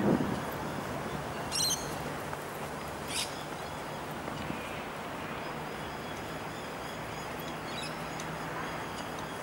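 Birds calling: two short, high calls about a second and a half apart, then faint high chirping, over a steady traffic hum. A passing car is loudest right at the start.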